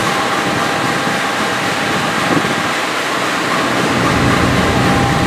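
Passenger train on the station tracks: a steady, even rumble with a faint continuous hum through it.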